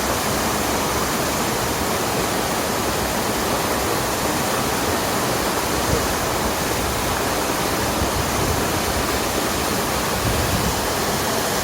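Rushing water of a mountain stream or waterfall: a steady, even rush with no breaks.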